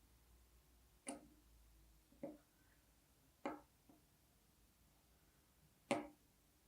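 Four separate sharp clicks from a dual pneumatic piston fidget toy being worked by hand, spaced unevenly, with the last the loudest.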